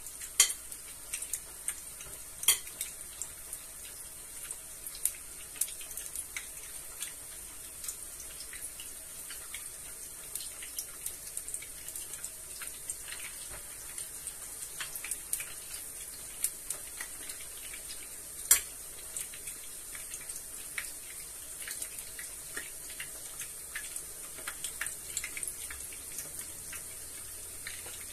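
Meatballs frying in hot oil in a pan: a steady high sizzle with constant small crackles and pops. A few sharp clinks of a utensil against the pan stand out, the loudest right at the start, about two and a half seconds in and around eighteen seconds in.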